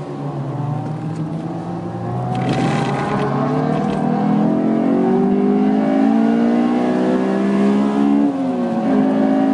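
Honda S2000's four-cylinder engine with a K&N intake, heard from inside the cabin, pulling hard with its pitch rising steadily, then dropping at a gear change about eight seconds in before climbing again. A brief rush of hissing noise comes about two and a half seconds in.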